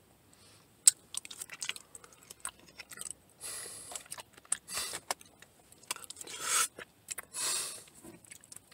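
A person chewing a mouthful of loco moco, with scattered wet mouth clicks and smacks and a few short hissing puffs of breath.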